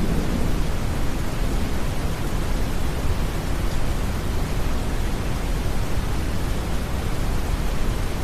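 Steady brown noise, an even rushing hiss weighted toward the bass, with soft rain blended into it.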